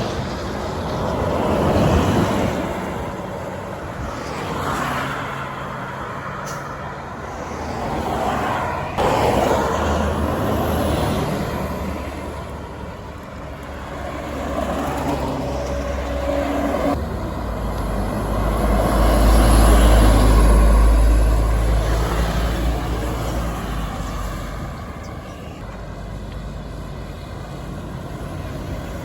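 Buses and other road traffic passing one after another, each vehicle swelling and fading. A heavy low rumble from a large vehicle peaks about twenty seconds in.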